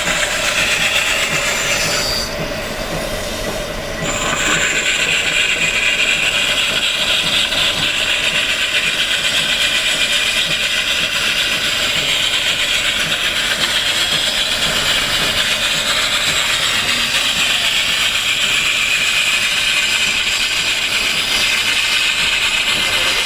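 Power tool grinding stone: a steady, high-pitched screech that eases off about two seconds in and comes back at full strength about two seconds later.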